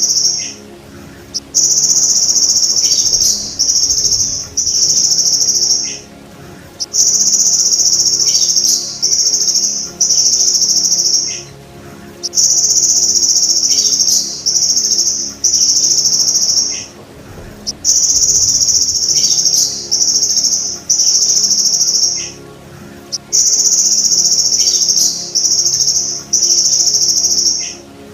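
Golden grasshopper ('belalang emas') stridulating: loud, high buzzing trills of about a second each, three in quick succession, then a short pause, the pattern repeating about every five and a half seconds.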